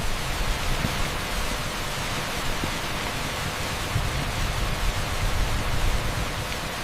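Torrential rain pouring onto an asphalt street: a dense, steady hiss with a low rumble underneath.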